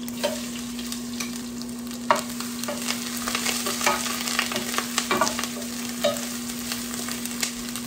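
Ginger-garlic paste sizzling in hot oil in a square pan, being sautéed to drive off its raw smell, while a wooden spatula scrapes and knocks against the pan as it stirs. A steady low hum runs underneath.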